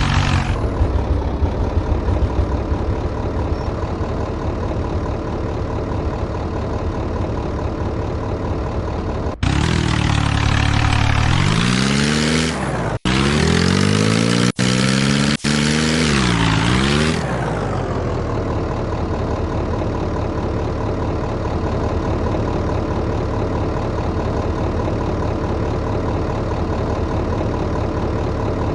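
Tractor engine running at a steady idle, revved up and down several times in the middle before settling back to idle.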